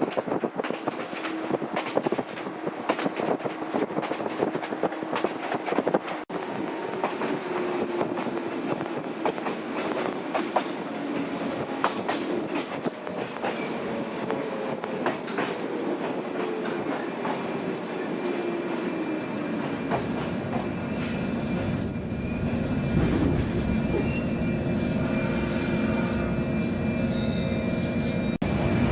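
Old JNR-type electric train running, with a steady rattle and repeated clicks of the wheels over the rails. Partway through, the motor whine falls in pitch. From about two-thirds of the way, a heavier rumble and high, thin squealing tones come in, and near the end the whine begins to rise again.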